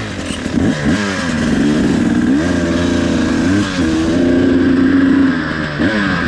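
KTM 300 two-stroke dirt bike engine, loud, revving as the bike pulls away and rides: its pitch climbs, holds steady, then drops and climbs again several times with the throttle.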